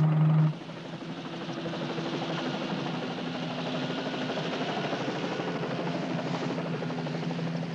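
Helicopter in steady flight: an even rushing noise with a few held low hums, the loudest hum cutting off about half a second in.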